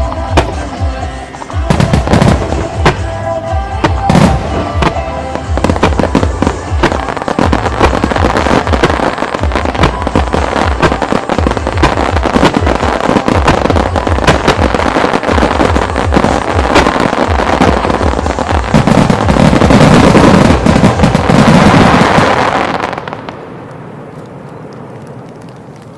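Starmine fireworks finale set to music: a dense, rapid salvo of shell bursts and crackle building to its loudest. It stops suddenly about three seconds before the end, leaving a fading rumble of echo.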